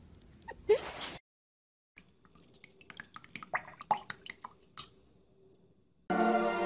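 Light splashing and dripping from a duckling paddling in a shallow tub of water, heard as scattered small ticks and splashes. Music starts near the end.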